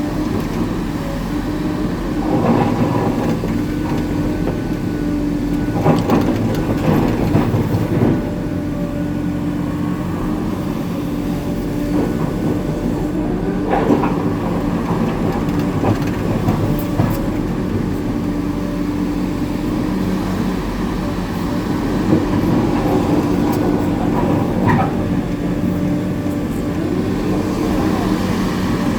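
Hitachi 890 excavator's diesel engine running steadily under load, with the clatter and clanks of shot rock being dug and dumped into an articulated dump truck several times.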